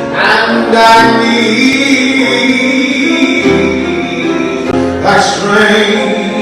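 Gospel song sung with keyboard accompaniment, the voices holding long notes.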